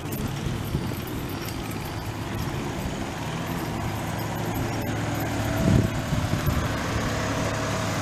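Car running, a steady low rumble of engine and road noise, with a short knock a little before six seconds in.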